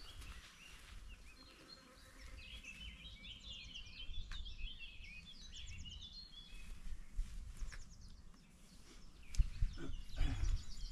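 A songbird singing, a quick run of varied chirps and trills, over a low rumble. A few louder low thumps come near the end.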